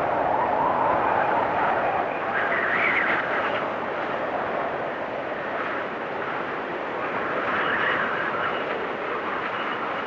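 Blizzard wind blowing steadily and swelling in gusts, with a whistling edge that shifts in pitch: lower near the start, higher about three seconds in and again near the end.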